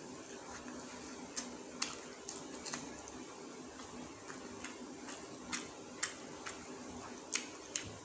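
A person eating rice and goat curry by hand, chewing with sharp mouth clicks and lip smacks at irregular intervals, over a steady low hum.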